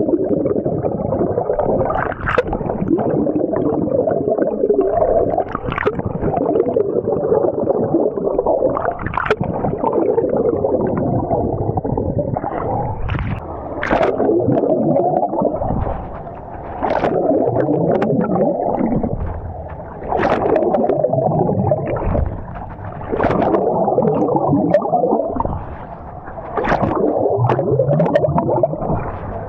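Heavily muffled water sloshing and gurgling, as heard underwater during swimming, with scattered sharp clicks and short lulls every few seconds.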